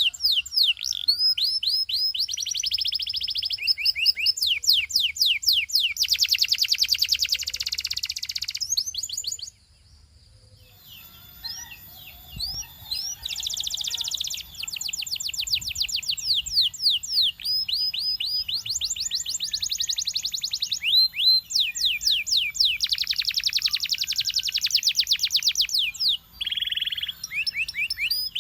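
Belgian singing canary singing a long song of fast repeated notes and rolling trills. The song breaks off for about a second and a half roughly a third of the way through, then resumes.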